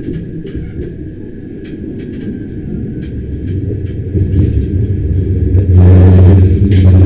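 Bernina Express train rolling along the track: a steady low rumble that swells about six seconds in into a louder, deeper hum.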